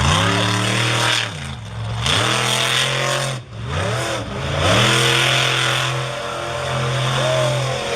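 Monster truck engine revving hard: the pitch drops and climbs back twice in the first few seconds, then holds at steady high revs.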